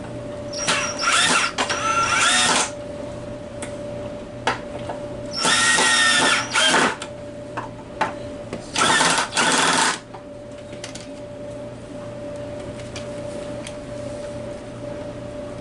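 Handheld power drill/driver run in three bursts, each made of short trigger pulses, its motor pitch dipping and rising as it works, typical of driving screws into wood. A steady low hum runs underneath.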